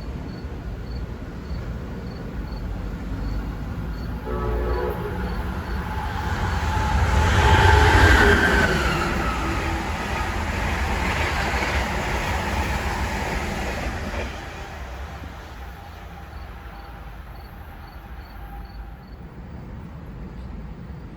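A passenger train sounds a short horn blast about four seconds in, then rushes past on the Northeast Corridor main line. The wheel and rail noise is loudest about eight seconds in, with a falling pitch as it goes by, and dies away after about fourteen seconds.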